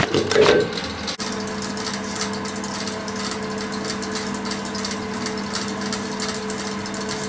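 Electric beard trimmer running with a steady buzz, starting about a second in, with a fine scratchy rasp as it cuts through beard hair.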